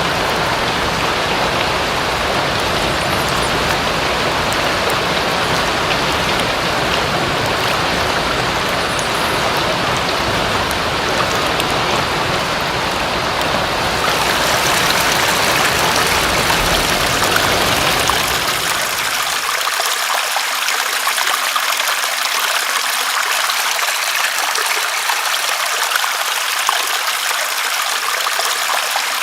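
Steady rain changing over to running water: about halfway through the hiss grows brighter, and a few seconds later the deep low rumble drops away, leaving a thinner, higher water sound like a stream.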